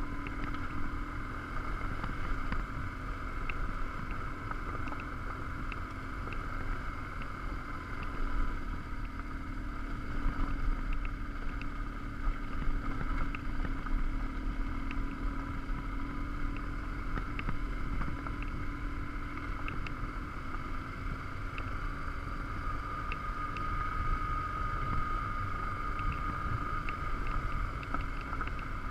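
BMW R1150GS Adventure's boxer twin engine running steadily as the motorcycle rides a gravel track, with wind rumbling on the microphone and scattered small ticks.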